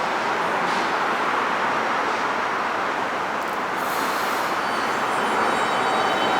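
R160 subway train running on the elevated track with a steady rushing rumble of wheels and cars. It grows louder toward the end as a faint whine begins to come in.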